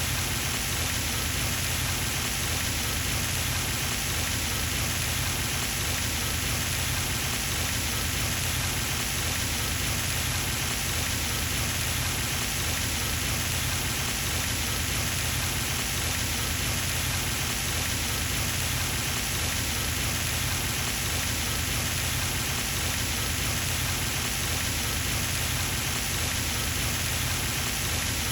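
Pond fountain running: a steady spray of water splashing down onto the pond surface, with a low rumble underneath.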